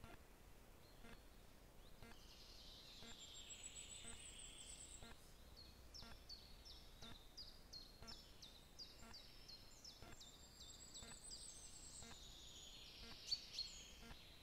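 Faint wild birdsong over a faint steady hiss: a high thin trill, then a long run of quick, sharp, falling notes repeated many times, with two louder sharp notes near the end.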